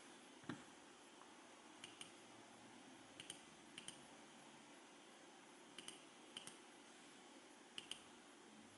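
Faint clicks of small buttons, most coming in quick pairs like a press and release, about seven times at uneven intervals, over quiet room tone.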